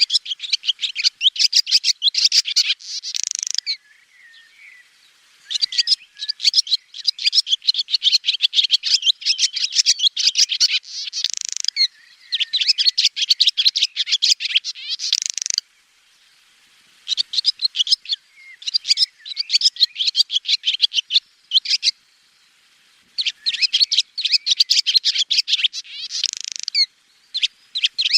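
Swallow twittering in quick runs of high, bright chirps, each run lasting a few seconds, broken by short pauses about five times.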